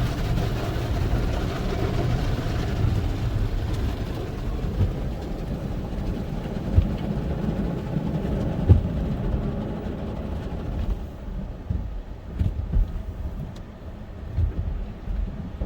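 Automatic car wash tunnel heard from inside the car: a steady low rumble of the wash equipment and water, with occasional dull thumps, easing off a little in the last few seconds.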